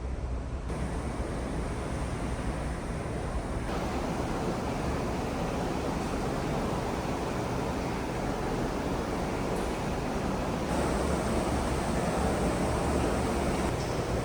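Steady rushing of wind and sea along a ferry under way, with a low engine rumble underneath. The noise changes character abruptly a few times.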